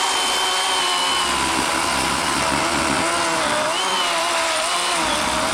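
Worx WG384 40-volt cordless electric chainsaw with an 18-inch Oregon bar cutting into a fallen log, its motor whine steady and loud, dipping slightly in pitch now and then as the chain bites into the wood.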